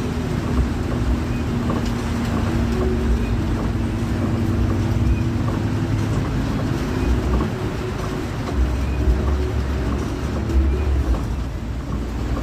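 Intercity coach's engine running steadily with road noise while under way, a low hum whose pitch shifts down about seven seconds in.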